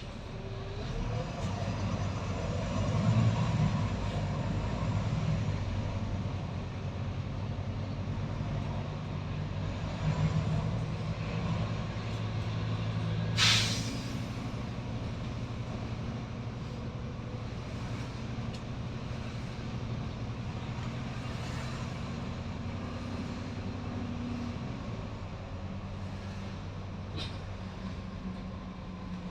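Volvo B9TL double-decker bus's six-cylinder diesel engine running under way, with its note shifting slightly as it pulls. About halfway through comes one short, loud hiss of air from the bus's air brakes.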